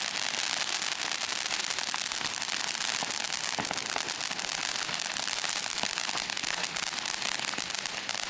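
Consumer fireworks crackling continuously: a dense, rapid stream of small pops and crackles that runs on without pause.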